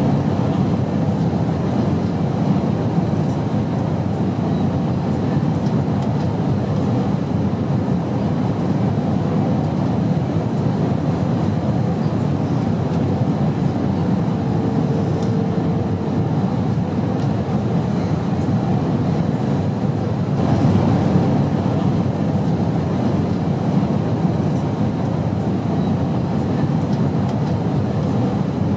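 Steady airplane drone: a continuous low rumble with hiss over it, unchanging throughout, with a faint brief tone about halfway through.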